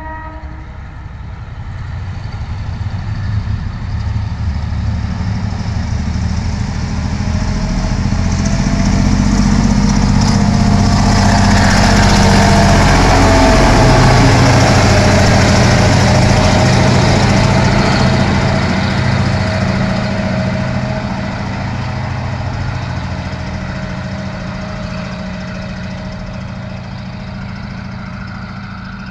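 Diesel locomotive passing close by: the low steady drone of its engine and the rumble of wheels on the rails grow louder, peak about halfway as it goes past, then fade away.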